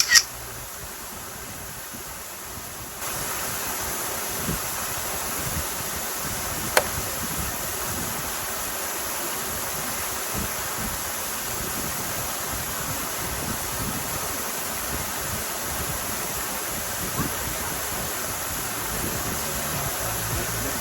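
Waterfall rushing steadily, with wind buffeting the microphone. It gets louder about three seconds in. There is a sharp click right at the start and another about seven seconds in.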